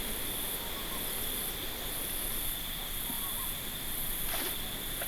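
Insects calling: a continuous high trill with a very high-pitched chirp pulsing on and off about once a second, over a steady background hiss. A couple of faint ticks come near the end.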